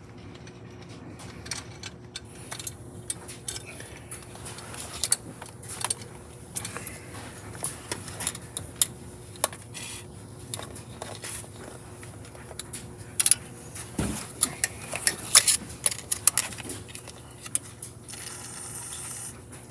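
Irregular metallic clicks and clinks of hand tools working bolts under a car during oil pan removal, with a flurry of sharper clicks about two thirds of the way through.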